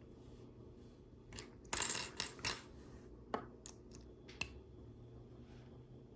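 Hands working small LEGO plastic parts: a brief scratchy rustle about two seconds in, then a few sharp separate plastic clicks.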